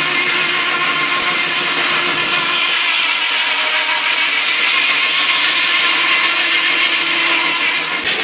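Sawmill machinery running steadily, a loud mechanical hum with a hiss above it; a short knock comes near the end.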